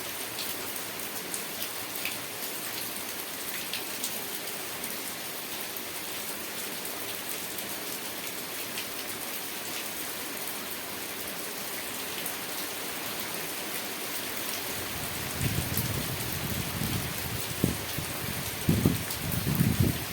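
Steady rain falling, with scattered individual drops ticking through the hiss. About three-quarters of the way in, a low rumble with several louder thumps joins the rain.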